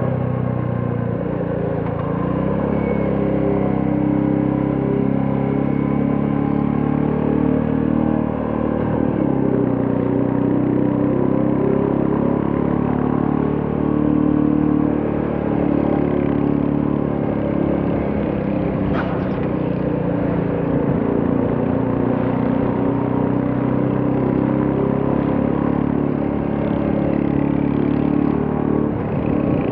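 Royal Enfield Classic 350's single-cylinder engine and exhaust running steadily at cruising speed during a ride, its pitch shifting only a little, over road noise. A short click about two-thirds of the way through.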